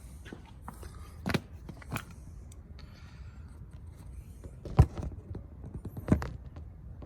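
A few sharp knocks and clicks, the loudest nearly five seconds in, over a low steady rumble, with no pedestrian-warning hum from the Tesla Model 3, whose speaker has been unplugged.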